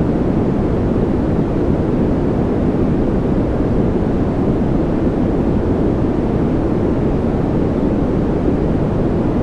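Continuous white noise played for a sleeping baby, a deep, steady rushing hiss weighted toward the low end, with no changes or breaks.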